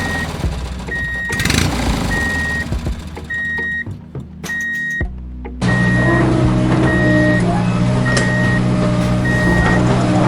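Reversing alarm from an RC toy construction vehicle's sound effects, beeping at one high pitch about once a second over simulated engine running. About halfway through, a louder steady engine hum comes in under the beeps.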